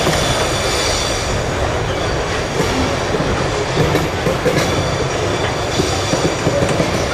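Freight train cars rolling past on the rails, with a steady rumble, wheels clacking over rail joints, and a thin, high wheel squeal.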